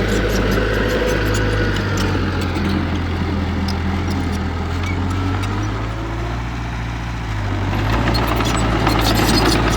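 Diesel engine of heavy earthmoving equipment running steadily under load, with scattered clicks and clanks. About eight seconds in the engine note shifts and grows louder.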